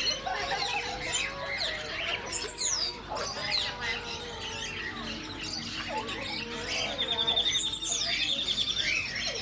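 A chorus of small aviary birds chirping and calling over one another, with high sweeping calls and squawks. Near the end, one bird gives a rapid, even trill of about ten notes a second.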